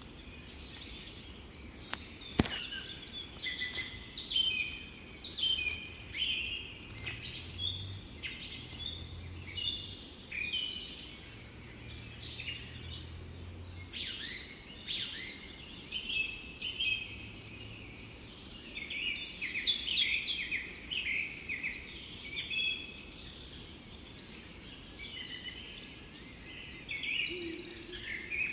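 Several small birds singing and chirping in quick, overlapping phrases, with a sharp click about two seconds in.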